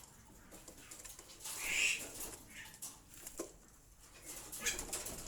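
Bali starling giving one loud call about a second and a half in, with scattered short clicks and fainter calls around it.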